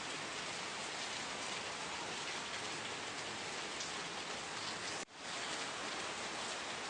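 Steady rain falling on a surface, an even hiss of raindrops. About five seconds in it cuts out for a moment and fades back in.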